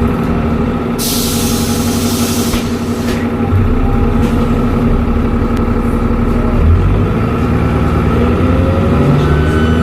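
Dennis Trident double-decker bus's diesel engine running with a steady turbo whistle. About a second in, a hiss of compressed air lasts about a second and a half, typical of the air brakes releasing; from about three and a half seconds the engine takes on more load and grows a little louder.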